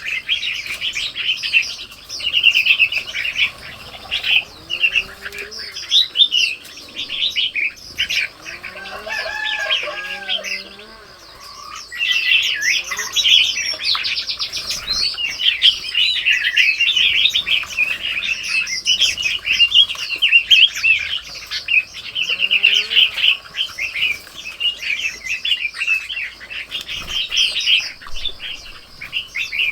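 Many songbirds chirping and twittering continuously in a dense chorus, with a few lower, gliding calls now and then.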